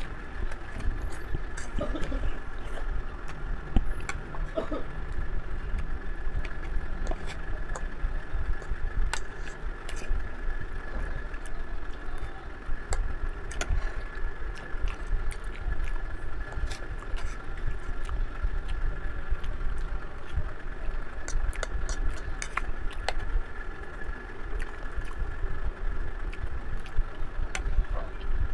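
Eating sounds: scattered small clicks of chewing and mouth noises as food is eaten by hand, over a steady low background rumble with a faint steady high hum.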